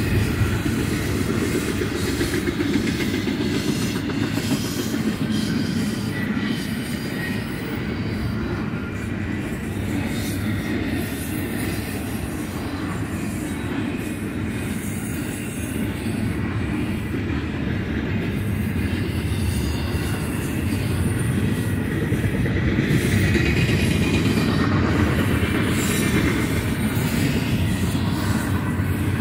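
Double-stack intermodal freight train rolling past: a steady, loud rumble and clatter of steel wheels on rail from the loaded container well cars, with a thin wheel squeal now and then.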